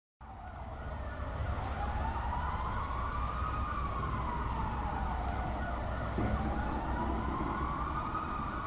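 A siren wailing in a slow rise and fall, two sweeps, over a steady low rumble like distant traffic. It starts suddenly out of silence as the intro of a song.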